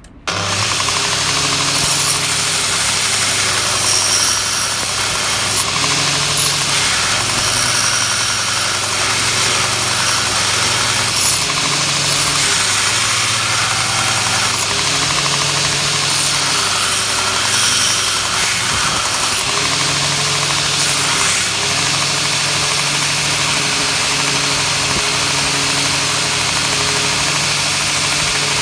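DIY belt grinder powered by an angle grinder, running steadily with a loud high-pitched motor whine and belt noise over a wavering low hum.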